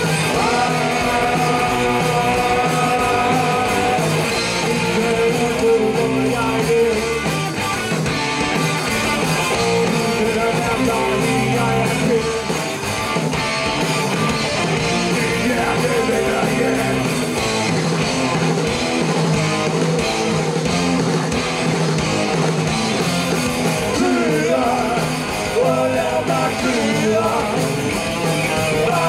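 Rock music: a band with electric guitar and a singing voice, at a steady beat.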